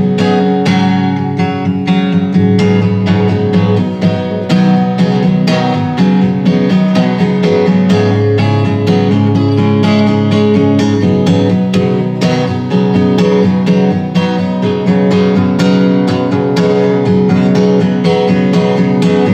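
Instrumental guitar break in a country-style song: strummed and picked acoustic guitar with accompaniment, no singing.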